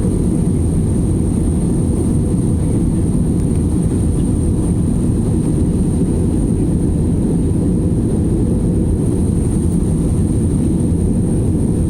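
Airliner cabin noise in flight: a steady, low rushing drone of engines and airflow, unchanging in level.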